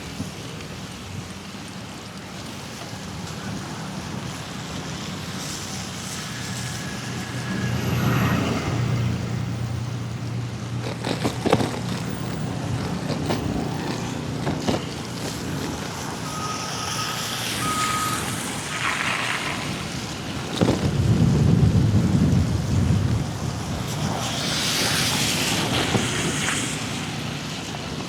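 Busy street traffic heard from a bicycle: cars and trucks passing. A heavy vehicle's low rumble swells about three quarters of the way in, followed by a loud hiss near the end.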